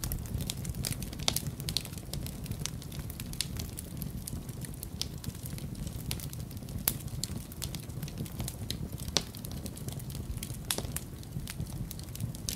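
Wood fire in a fireplace crackling, with frequent irregular sharp pops, the loudest about a second in, near the middle and about three quarters through, over a steady low rumble.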